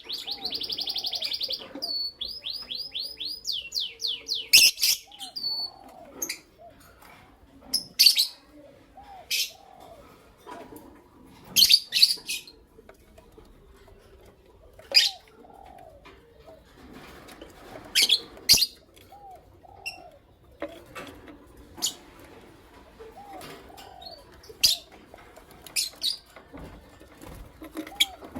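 Lovebirds chirping: a quick run of high, rapid chirps in the first few seconds, then sharp single chirps every second or few seconds.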